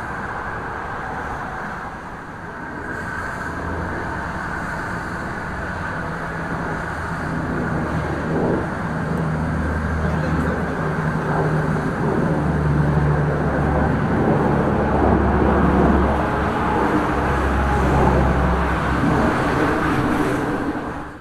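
Jet airliner engines passing close by: a steady rushing noise with a low hum that builds over several seconds, stays loud, then cuts off suddenly at the end.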